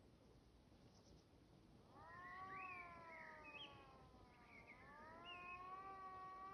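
A faint, siren-like wailing tone that swells up about two seconds in, slowly sags in pitch, then rises again and holds steady.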